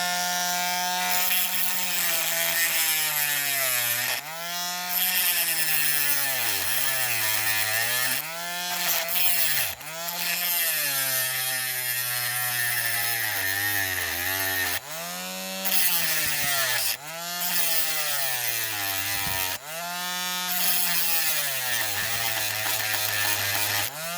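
Small handheld electric power tool motor whining as it cuts into soft die-cast zinc alloy, its pitch repeatedly sagging and recovering as it bogs under load. It stops just after the end.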